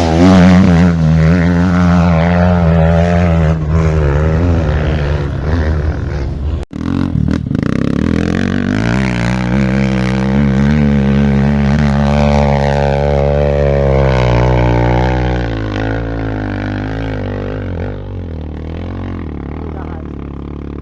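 Dirt-bike engines revving and labouring, their pitch rising and falling. The sound breaks off abruptly about six and a half seconds in and picks up again, then drops lower near the end.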